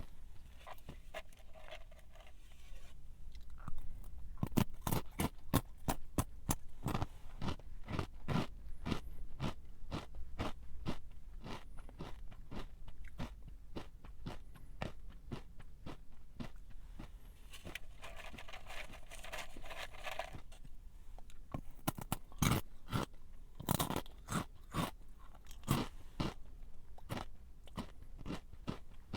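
A person chewing a crunchy snack close to the microphone: a long run of sharp, irregular crunches, densest after the first few seconds and again near the end, with a softer rustling stretch before the last burst.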